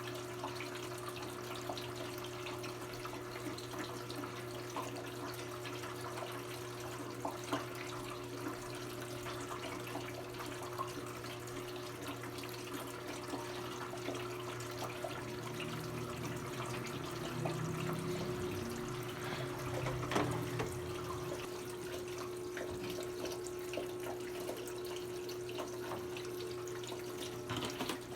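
Brastemp 17 kg washing machine filling with water early in its quick cycle: water pouring in steadily with a constant hum. A low rumble swells for a few seconds just past the middle.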